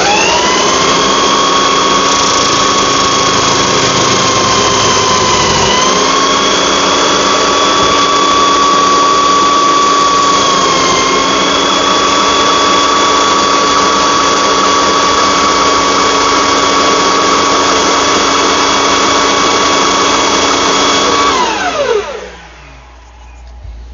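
Electric power sanding tool running steadily with a motor whine, its pitch dipping briefly twice as it is pressed into the work. About 21 seconds in it is switched off and winds down with a falling pitch.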